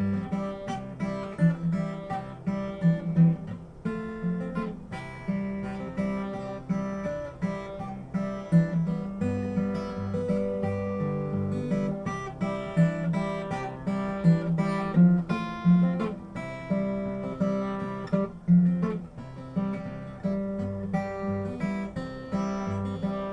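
Instrumental break of a folk-style song: acoustic guitar strummed and picked in steady chords.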